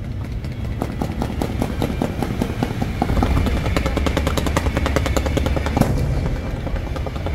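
Fireworks crackling in a dense, rapid rattle of small bangs, heavier from about three seconds in, with one louder crack near the end.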